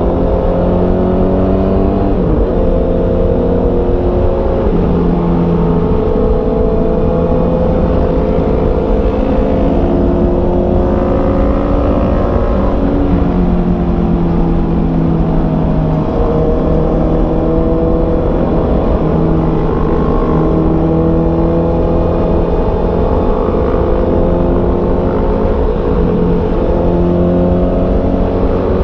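Honda CB650R's 649 cc inline-four engine pulling under way, its pitch climbing and then dropping at a gear change several times, over a steady low rumble of wind noise.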